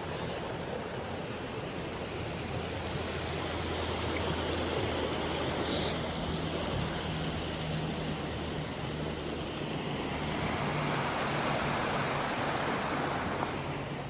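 A river flowing: a steady rush of water.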